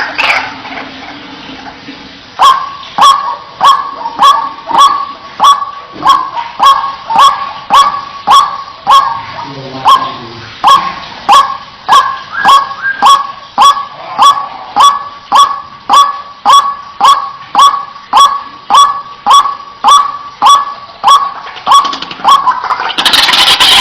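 White-breasted waterhen repeating a sharp single-note call over and over, about one and a half calls a second, starting a couple of seconds in.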